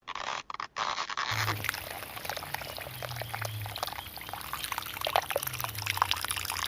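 Water pouring and splashing in an irregular patter, as from a small pump's outlet, with a faint low hum underneath that comes and goes.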